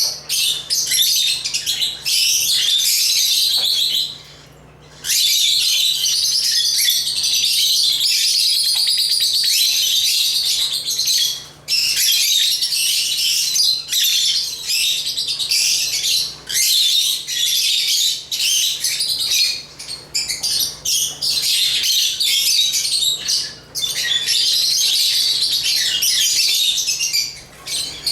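African lovebirds chirping and twittering in a dense, rapid, high-pitched stream, with a few short pauses, the longest about four seconds in.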